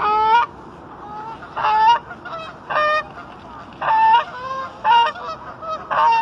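Geese honking loudly: about six short, harsh honks spaced roughly a second apart, as the birds squabble at feeding time.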